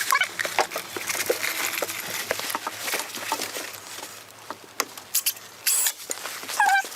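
Short wavering animal calls, one just at the start and another near the end, with scattered clicks and taps in between and a brief hiss about six seconds in.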